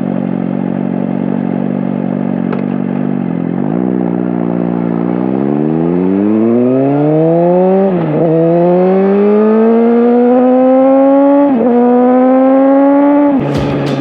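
Suzuki GSX-R1000 inline-four motorcycle engine and exhaust under riding load. It runs at steady revs, then accelerates hard with rising pitch, drops sharply twice on upshifts about 8 and 11.5 seconds in, and climbs again. Near the end the revs fall off with sharp exhaust crackles on the overrun.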